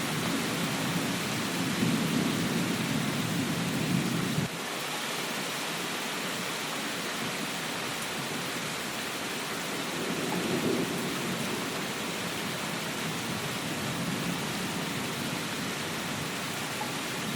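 Steady heavy rain with low thunder rumbling under it. The first rumble stops abruptly about four and a half seconds in, and a softer one swells about ten seconds in.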